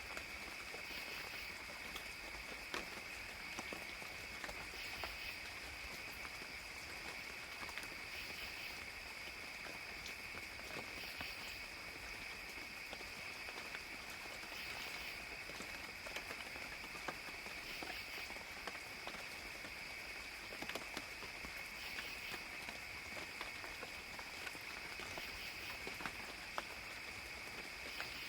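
Rainy forest ambience: a steady high-pitched chirring chorus, likely insects, with scattered drips and patter of raindrops.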